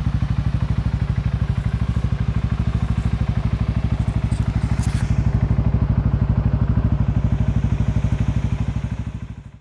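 CFMoto 625 ATV's single-cylinder engine idling through an aftermarket RJWC crossflow exhaust, with a steady, even exhaust pulse of about ten beats a second; the sound fades out near the end.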